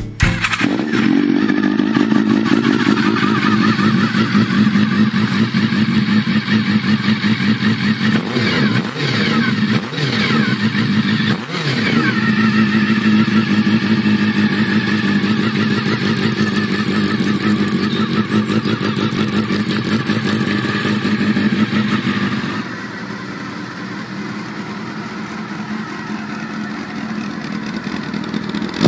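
Honda CBR400R's parallel-twin engine running at a mostly steady pitch, with a few quick rises and falls in pitch about a third of the way in. Near the end the sound drops to a quieter level.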